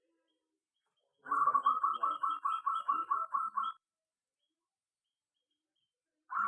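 Perkutut (zebra dove) calling: a quick run of short, evenly repeated coos, about five a second, lasting some two and a half seconds. A second run starts at the very end.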